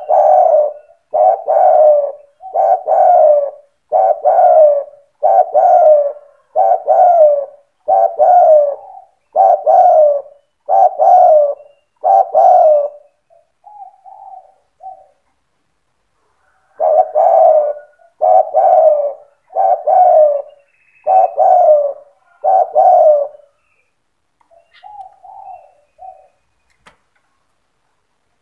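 Spotted dove (tekukur) cooing in steady runs: about ten loud coos, one every second and a half or so, then a short softer phrase, a brief pause, six more coos and a few soft notes.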